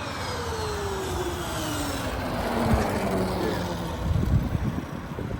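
A motor whine falling steadily in pitch for about three and a half seconds, like a motor winding down, over a rumbling background.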